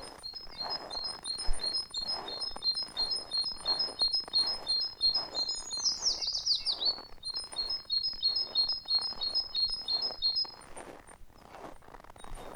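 Small songbirds singing a fast run of high repeated notes through most of the stretch, with a brief louder trill falling in pitch about six seconds in. Underneath, soft footsteps in snow at a steady walking pace.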